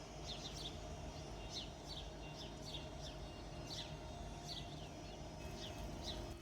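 Small birds chirping over and over, short high notes that drop in pitch, a couple every second, over a low, steady outdoor rumble.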